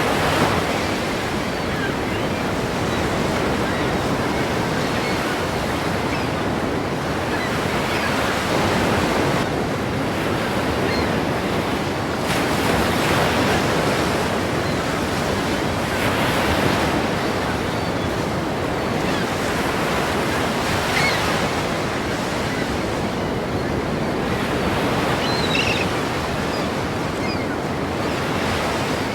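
Ocean waves crashing against a pier: a continuous wash of surf that swells with each wave, every few seconds.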